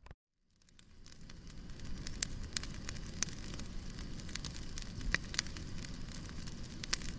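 Wood fire crackling in a fireplace: a steady low rumble of flame with frequent small crackles and a few louder pops. The sound drops out briefly at the very start and fades back in over about a second.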